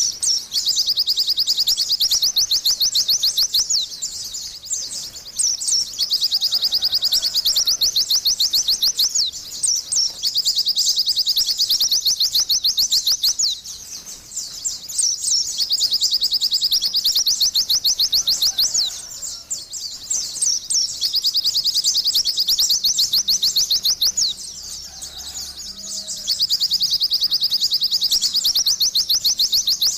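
White-eye (pleci) singing: long, very fast high-pitched twittering trills of rapidly repeated notes, each run lasting several seconds, with short pauses between them.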